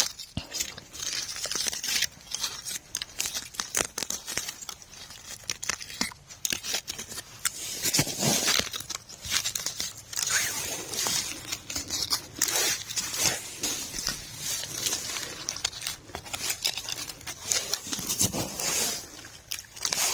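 Irregular crunching, crackling and tearing of frozen forest-floor growth as frost-stiff wild mushrooms are picked and handled by hand.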